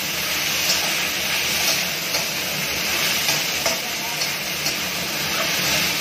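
Mushrooms sizzling as they are stir-fried in hot oil and browned garlic in a metal wok, with a metal spatula scraping and clinking against the pan about once a second.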